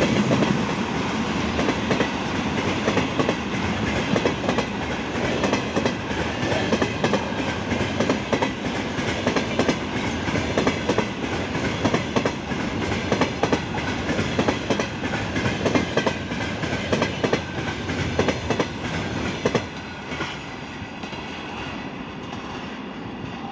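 Freight train wagons rolling past, their wheels clicking and clattering over the rail joints. The sound drops off about twenty seconds in and fades as the train goes by.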